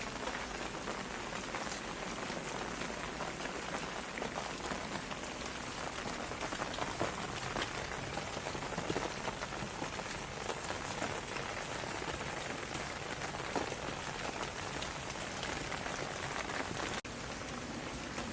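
Steady rain falling on a surface, a dense even hiss with many individual drops ticking through it; the sound cuts out for an instant near the end before carrying on.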